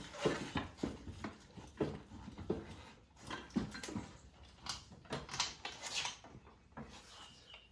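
Irregular clicks and knocks of hand tools and metal parts being handled during motorcycle engine removal, a couple of sharp strokes a second.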